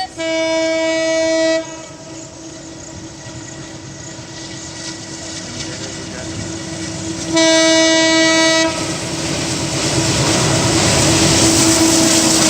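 Locomotive horn of the Puri Express sounding two long, steady blasts about seven seconds apart, while the approaching train's running noise grows steadily louder toward the end.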